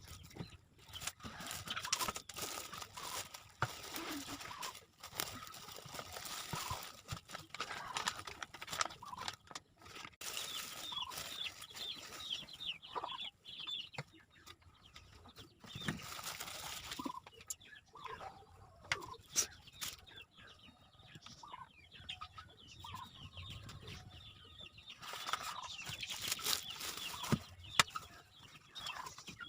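Irregular rustling, crinkling and clicking of packaging and a small machine being handled, with chickens clucking in the background.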